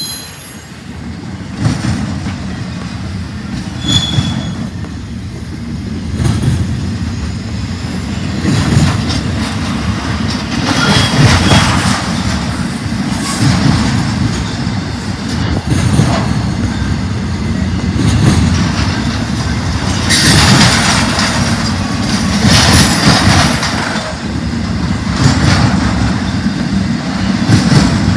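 Freight train cars rolling past: a steady rumble of wheels on rail that swells and eases, with a few short, high wheel squeals.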